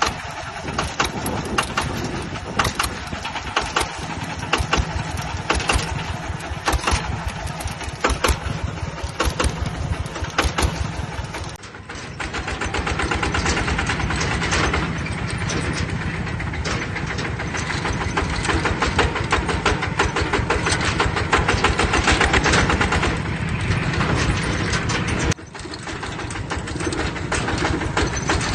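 Single-cylinder diesel engine of a mini tractor running with a rapid, even beat. The sound breaks off abruptly about twelve seconds in and again near the end, each time resuming as a separate recording.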